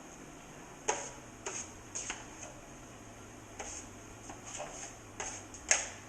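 Metal drywall knife working heavy hot mud (setting-type joint compound) onto a patch: short, irregular clicks and scrapes of the blade, the loudest near the end.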